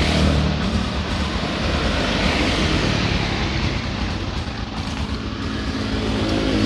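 Honda Supra X 125's single-cylinder four-stroke engine running steadily at idle with a newly fitted, tight cam chain, sounding smooth and calm, free of the rough knocking from the cylinder head area.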